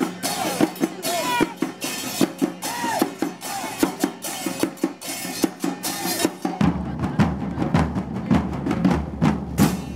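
Murga carnival drumming: bass drums and snare drums playing a fast, dense rhythm. About two-thirds of the way in, deeper bass drum strokes come to the fore.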